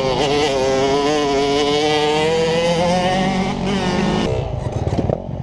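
A vehicle engine running at high revs, its pitch wavering and slowly climbing as it accelerates, then cutting off about four seconds in.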